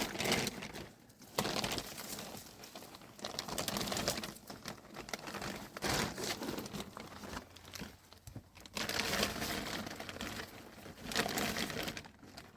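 Plastic sheeting being handled, crinkling and rustling in irregular surges with small crackles.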